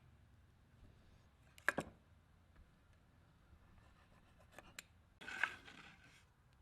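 Small handling noises: a quick double click, two lighter ticks a few seconds later, then a short scrape lasting about a second.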